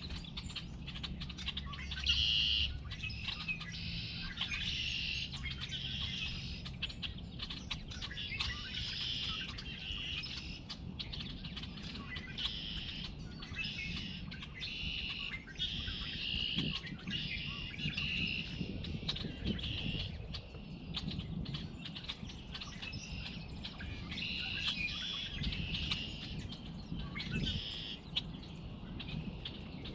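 Several songbirds chirping and singing in repeated short phrases, a spring bird chorus, over a low steady background rumble.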